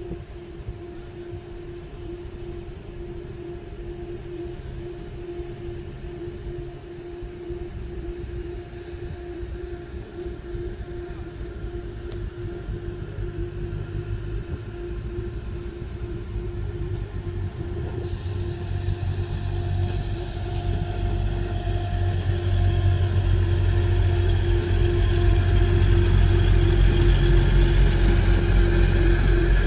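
ICE-TD diesel multiple unit running slowly alongside the platform and passing close by. Its engine and wheel rumble grow steadily louder as it nears, over a steady droning tone, and three short high-pitched squeals from the running gear come about 8, 18 and 28 seconds in.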